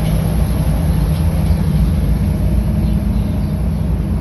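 Freight train of coal cars rolling past at close range: a steady, loud low rumble of wheels on rail.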